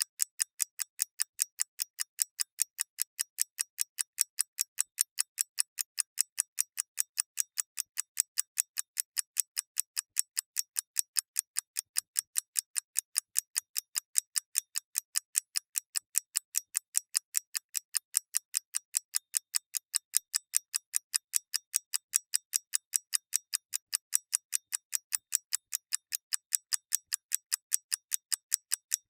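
Mechanical clock ticking steadily: sharp, crisp ticks at an even pace of a few per second, with nothing in the bass.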